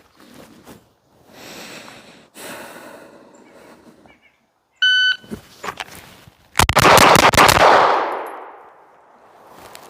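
A shot-timer beep, then about a second and a half later a rapid string of pistol shots from a Walther PDP, fired within about a second, with the sound of the shots ringing out and dying away afterward.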